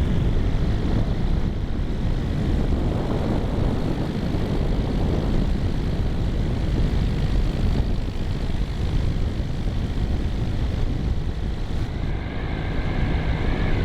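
Steady drone of an aircraft engine mixed with heavy low rumble, as heard from on board during an aerial pass.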